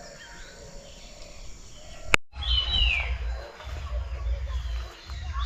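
Puff-throated babbler calling, a loud whistled phrase that slides downward, starting about halfway through, over a low rumble. Before it there is only faint forest background and a single click.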